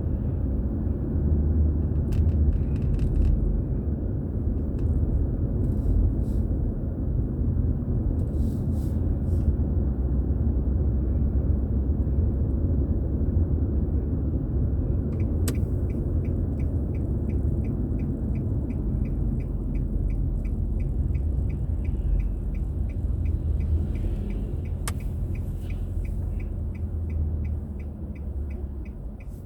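Steady low road and engine rumble inside a moving car. About halfway through, a car's turn-signal indicator starts ticking evenly, about three ticks a second, and the rumble eases near the end.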